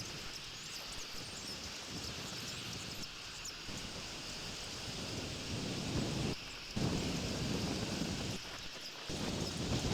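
Wind buffeting an outdoor nest-camera microphone as a rumbling rush that swells in gusts and drops out briefly twice near the end. Faint short high chirps sound over it in the first few seconds.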